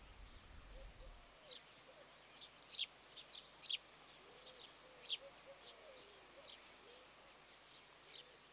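Faint birdsong: scattered short, high chirps that sweep downward, with softer, lower curving calls between them.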